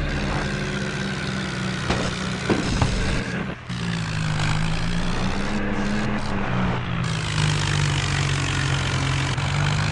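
Tractor engine running steadily, with a brief drop in level about three and a half seconds in.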